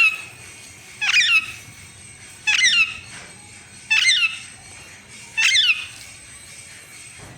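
Pet parrot calling 'mummy' over and over, about five times, once every second and a half. Each call is a short, high falling cry in two parts.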